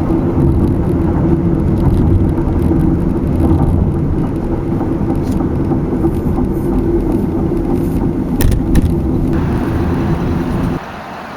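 Car driving on the road, a steady rumble of tyres and engine as heard from inside the vehicle, with a few sharp clicks about eight and a half seconds in. The rumble cuts off abruptly shortly before the end.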